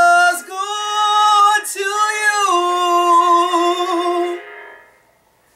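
A woman singing unaccompanied, closing the song with a long held final note that fades out about five seconds in.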